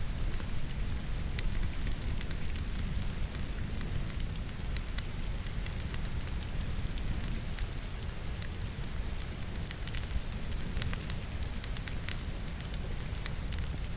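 Firewood burning in a fireplace, crackling with frequent sharp, irregular pops, over the steady hiss of falling rain.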